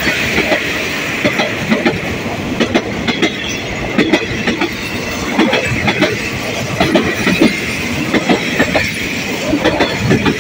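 Passenger coaches of a Thai rapid train rolling past at close range: wheels clattering over the rail joints in quick, uneven clicks over a steady rolling hiss of wheels on rail.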